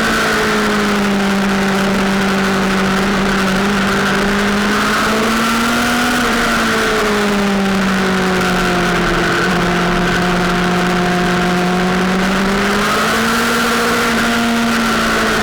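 Sportbike engine running hard at high revs, its pitch sagging and rising gently, peaking briefly about six and thirteen seconds in, over a steady rushing noise.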